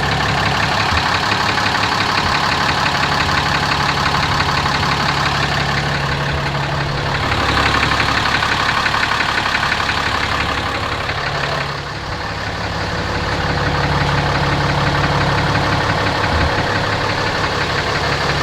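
2017 Ram 2500's 6.7-litre Cummins inline-six turbo diesel idling with a pronounced deep knock, heard close up. The level swells and dips as the microphone is moved around the engine.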